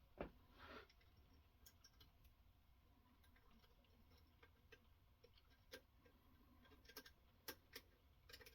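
Near silence with faint, scattered clicks from a knife-sharpening rig being handled, a soft knock about a quarter second in and a cluster of clicks near the end.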